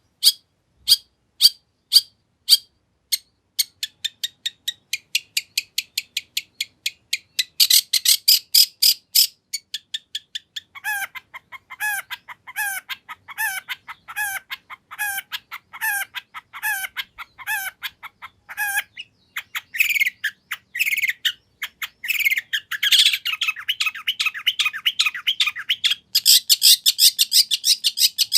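Long-tailed shrike singing a varied, mimicry-filled song. It opens with sharp, evenly spaced chirps about two a second, speeds up into rapid runs and dense trills, and sings a repeated series of downslurred notes before breaking into fast chattering near the end.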